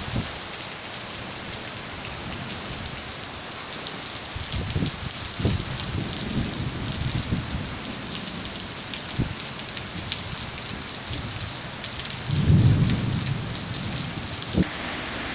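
Heavy summer rain falling on surfaces: a steady hiss of rain with drops pattering through it, and a few brief low rumbles, the strongest about twelve seconds in.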